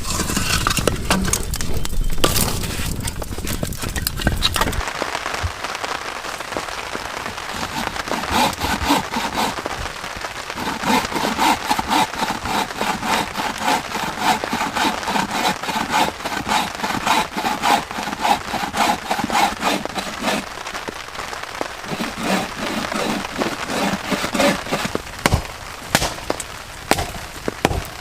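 Wood fire crackling with many sharp pops and snaps. A heavy low rumbling noise runs underneath for the first five seconds or so, then drops away.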